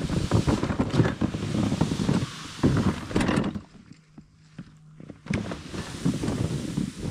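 Wind buffeting the microphone over crunching footsteps in snow, which drop away for a moment about halfway through.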